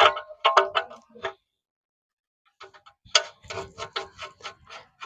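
Ratchet wrench clicking while tightening an engine oil drain nut: a quick run of clicks, a pause, then a steady run of about five clicks a second.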